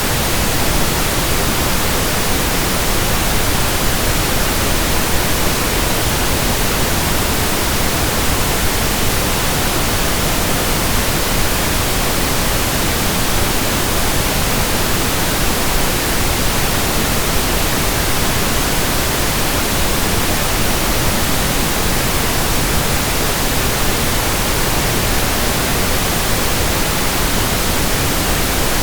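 Steady, unchanging pink noise, a continuous even hiss.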